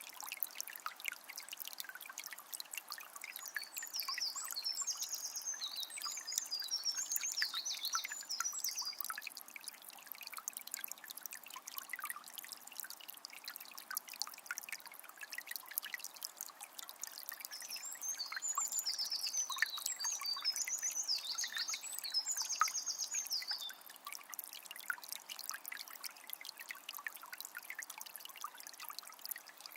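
A small spring's water trickling and splashing steadily. A songbird sings bursts of high, rapid trilling notes twice: once from about three seconds in, and again around eighteen seconds in.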